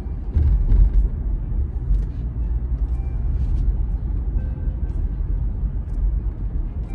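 City street ambience: a steady low rumble of traffic with a few faint clicks.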